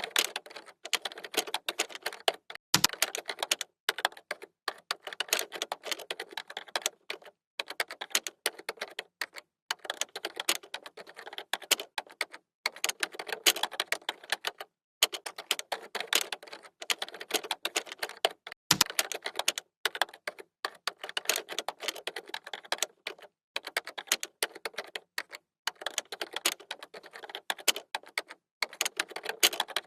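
Typing on a computer keyboard: fast runs of key clicks broken by short pauses, with a deeper knock twice, about three seconds in and near the middle.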